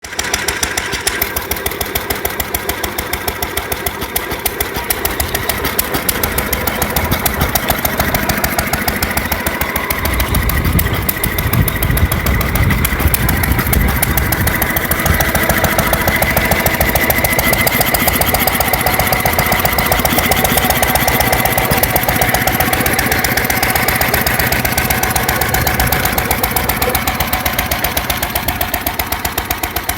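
International Harvester type LB 3–5 hp single-cylinder gas stationary engine running steadily with an even firing beat, belted to a Baker fan. The fan's light load opens the governor a bit. A deeper rumble joins about ten seconds in and the sound grows louder through the middle.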